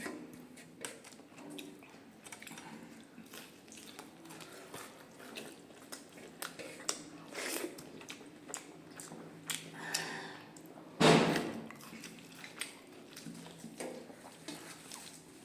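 Close-up eating sounds: chewing and soft mouth noises with scattered small clicks of fingers and plate as rice and fried leaf fritters are eaten. One louder sound about eleven seconds in.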